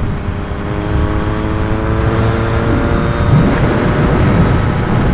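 Yamaha MT-09's three-cylinder engine running through an Akrapovic carbon full exhaust while the bike is ridden. The pitch climbs slowly as it pulls for the first two or three seconds, then eases off, with wind noise over the microphone.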